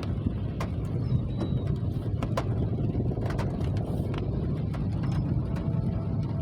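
Rain: a steady low rumble with scattered sharp taps of drops striking close by.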